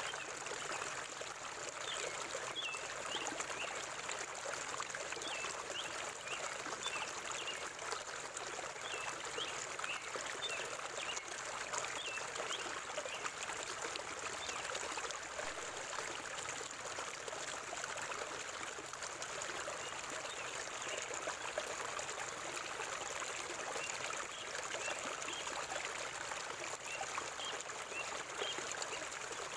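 River water flowing and trickling steadily over stones, with short high bird chirps scattered through it.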